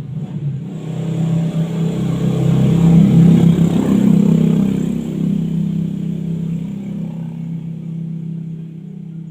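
A motor vehicle engine running, swelling to its loudest about three seconds in and then slowly fading.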